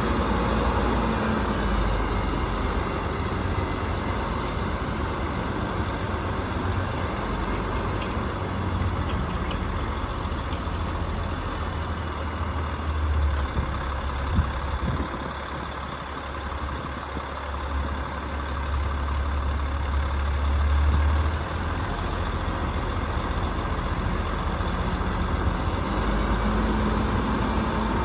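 Rooftop HVAC unit running: a steady machine hum over a low drone that swells and drops a few times, with a couple of brief knocks about halfway through.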